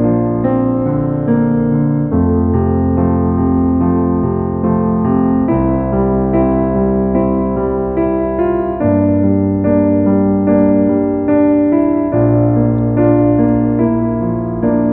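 Slow, calm piano music: sustained chords over a bass note that moves to a new chord about every three and a half seconds.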